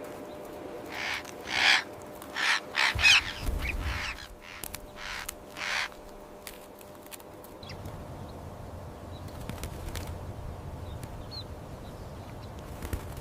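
Parrots squawking, a run of about eight loud, harsh calls in the first half, then only a few faint chirps. A steady low rumble sits under them from about three seconds in.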